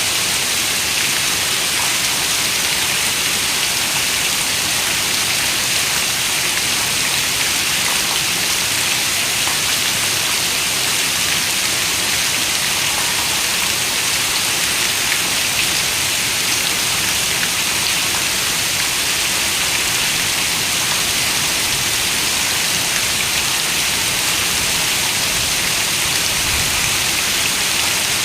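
Heavy rain falling on a window, a steady hiss of dense raindrops with no let-up.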